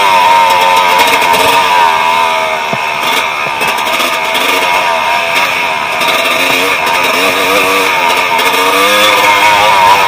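Dirt bike engine running under way, its pitch rising and falling with the throttle; it eases off briefly about two to four seconds in, then picks up again.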